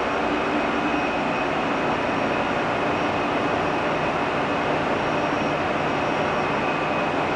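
Steady machinery noise of a ship's engine room: a constant dense rush with a few faint steady hum tones running under it, unchanging throughout.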